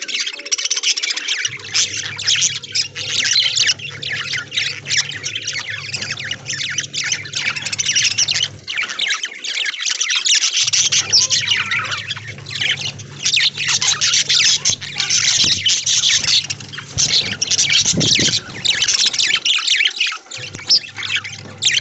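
A flock of budgerigars chattering and squawking, with dense, overlapping chirps that never let up. A separate low steady hum cuts out and back in a few times.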